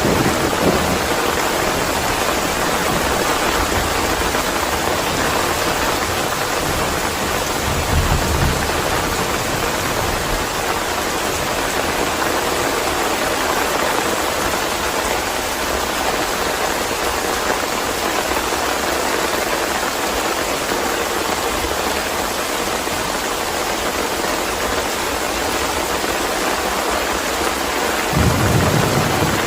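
Steady heavy rain, with low rumbles of thunder at the start, briefly about eight seconds in, and building again near the end.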